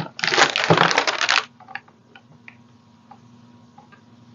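A rough rubbing, rustling noise lasting about a second as a paper napkin is pressed and rubbed down onto a decoupage tray, followed by a few faint light taps.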